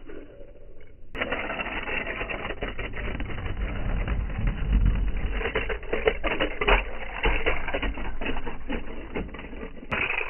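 1/64-scale diecast toy cars clattering: a dense run of quick small clicks and knocks that starts suddenly about a second in, with a low rumble swelling near the middle.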